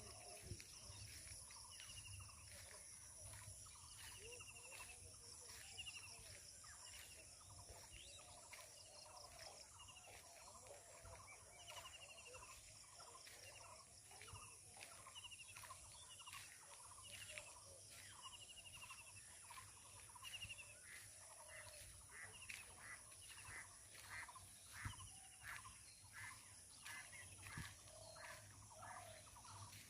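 Faint bird calls: short chirps repeated over and over, coming faster in the second half, over a steady high-pitched hiss.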